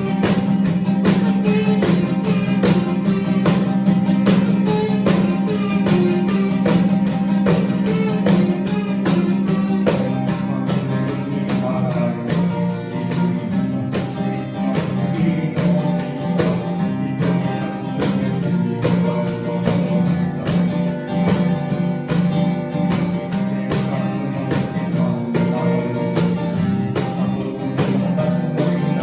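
Live band music: acoustic guitar strumming over a steady beat with a strong bass line.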